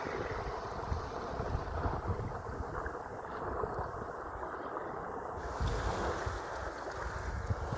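Sea waves washing continuously, with wind buffeting the microphone in gusty low rumbles.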